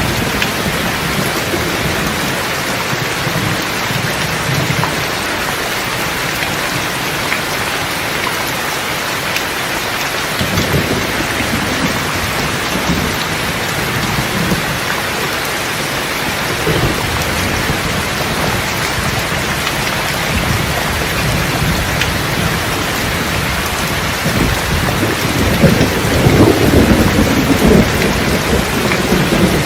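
Steady heavy rain with low rolling thunder rumbling underneath, the thunder swelling loudest near the end.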